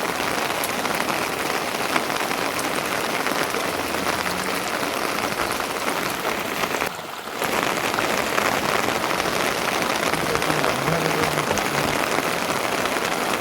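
Steady heavy rain, a dense even patter, dipping briefly about seven seconds in.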